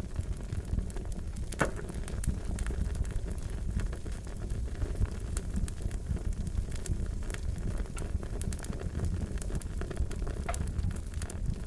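Wood fire crackling: a steady low rumble of flames with irregular sharp pops and snaps, a louder pop a little under two seconds in.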